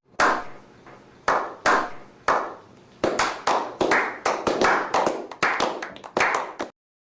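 A run of about fifteen sharp claps, a few spaced out at first and then coming quicker, each trailing a short echo, cutting off suddenly near the end.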